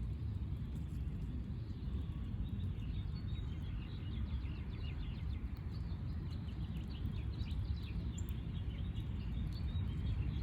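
Small birds chirping in quick, short, high notes from a couple of seconds in, over a steady low rumble of background noise.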